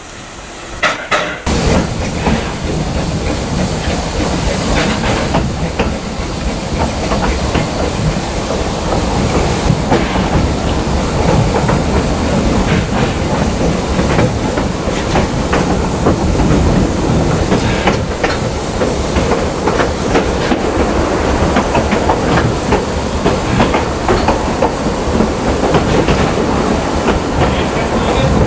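Narrow-gauge steam-hauled train running, starting suddenly about a second and a half in: a steady rumble with wheels clattering over rail joints.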